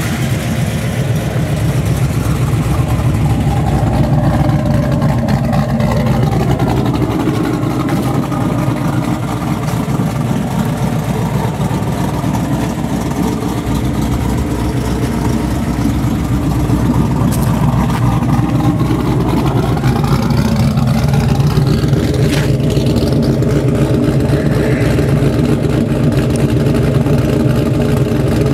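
1995 Trans Am's V8 running through long-tube headers, an off-road Y-pipe and a Magnaflow dual-muffler cat-back exhaust. The note rises and falls for about twenty seconds, then settles to a steadier tone.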